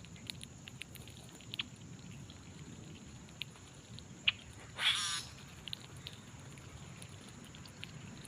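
Small animal feeding, probably a chipmunk or squirrel, making scattered light clicks and taps as it handles food. About five seconds in there is one short, loud rasping burst.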